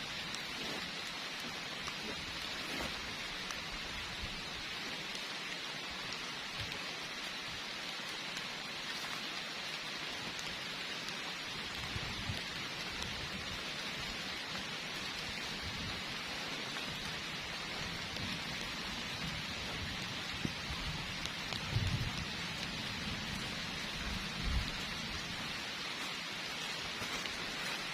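Heavy rain falling steadily with an even hiss. Low rumbles come in during the second half, with two short louder bumps near the end.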